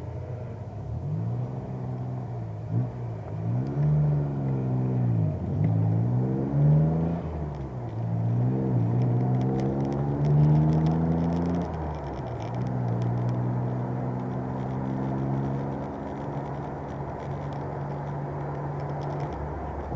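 Alpine A310 V6's 2.7-litre PRV V6 engine driven on track. Its revs climb and fall sharply several times through gear changes and corners in the first half, then hold a steadier note.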